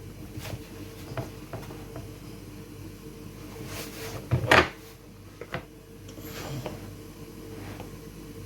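Hands kneading dumpling dough of flour and cornmeal in a bowl: scattered soft knocks and handling noises, with one loud thump about four and a half seconds in.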